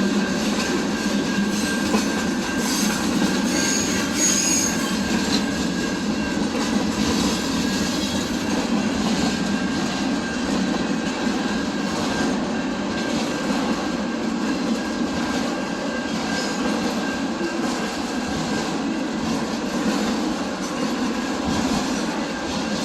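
A train passing close by, its steel wheels running on the rails in a steady, continuous rumble. Brief high-pitched wheel squeals come in about three to five seconds in.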